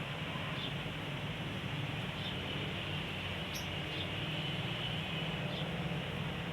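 A caged sogon bird giving short, high single chirps about every second and a half over a steady low background hum.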